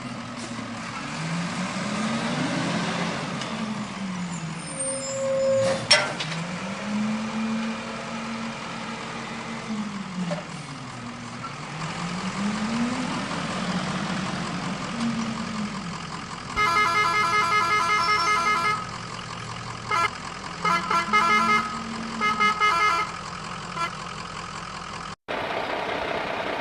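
Heavy truck engine revving up and down again and again in slow sweeps, with a sharp click about six seconds in. Past the middle, a multi-tone truck horn blares for about two seconds, then sounds in a few short honks.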